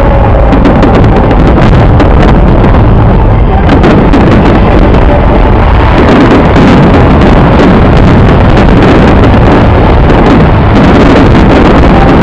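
A dense, continuous barrage of fireworks, with many sharp bursts and crackles running together into a steady wash of noise. It is loud enough to overload the microphone.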